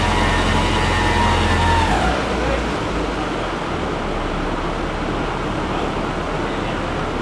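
Ford Focus ST170's 2.0-litre four-cylinder engine held at high revs on a rolling-road dyno, with a high whine; about two seconds in the revs fall away as the run ends. After that a steady rushing noise carries on.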